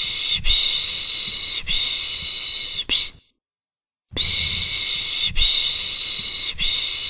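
A voice making the 'piş piş' shushing sound used to lull a baby: long hissing 'shhh' sounds of about a second each in runs of three followed by a short one. There is a pause of about a second before the same run repeats.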